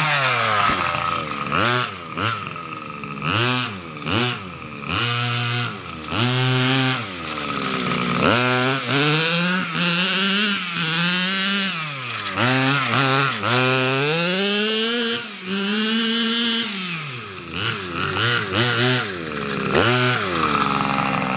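XTM Grizzly RC monster truck's 27cc two-stroke petrol engine revving up and down over and over, settling to a steady idle near the end. The sharpest flares in revs come when a wheel lifts off the ground and the differential sends the power to it.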